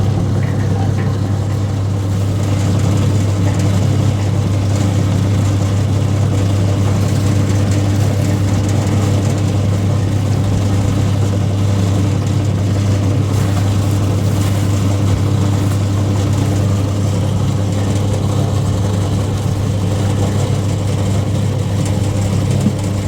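A motor engine running steadily at an even speed, with a low, unbroken hum.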